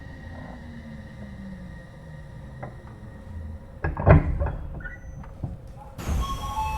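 Odakyu 3000 series electric train braking to a halt, the motor and inverter whine falling in pitch over the first seconds above a low rumble. About four seconds in come loud clunks, typical of the sliding doors opening, and near the end a burst of air hiss with a few short tones.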